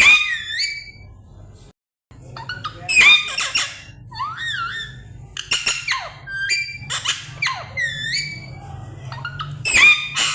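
A pet parrot squawking and screeching over and over in short, high-pitched calls that slide up and down in pitch.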